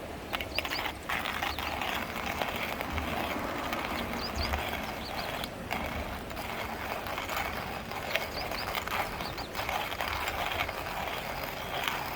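Hand-cranked plastic coffee mill grinding beans: a continuous crunching rattle of beans being crushed, with many small clicks throughout.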